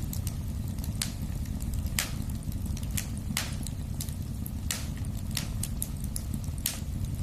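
Wood fire burning in a fireplace: a steady low rumble under irregular sharp crackles and pops, some much louder than others.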